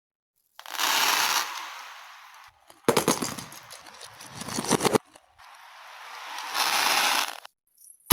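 Beads pouring and rattling, played backwards, in three separate stretches. A rushing rattle starts suddenly and fades. A dense run of sharp clicks ends abruptly. A final rattle swells and cuts off suddenly.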